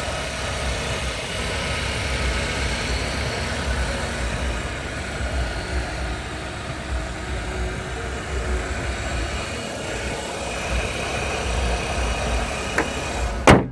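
2003 Volkswagen Passat's 1.8T four-cylinder engine idling steadily with the hood open, running very smooth. A single sharp knock sounds right at the end.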